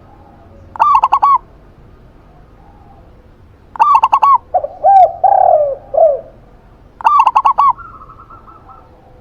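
Zebra dove and spotted dove calling in turn. The zebra dove gives three short phrases of quick, clipped cooing notes, about a second in, around four seconds and around seven seconds; between them, around five seconds, the spotted dove answers with a few lower, slurred coos.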